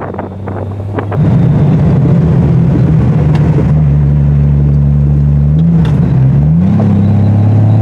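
Triumph TR6's straight-six engine through a Monza exhaust, heard from the cockpit. It is quieter and off the throttle for about the first second, then pulls loud under load at steady revs, with a short dip and then a climb in pitch near the end.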